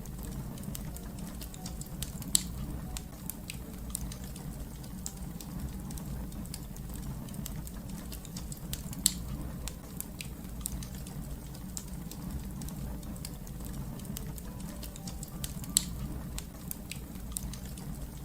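Crackling fire: a steady low rumble of burning with irregular small crackles, and three louder sharp pops about two, nine and sixteen seconds in.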